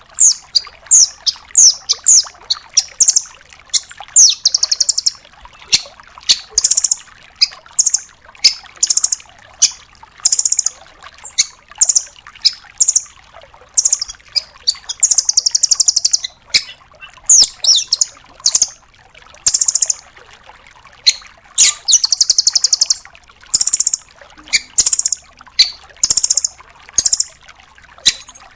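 Velvet-fronted nuthatch calling nonstop: sharp, high chip notes several times a second, broken every few seconds by a longer, very fast rattling trill (the 'tembakan', or shots, that bird keepers prize).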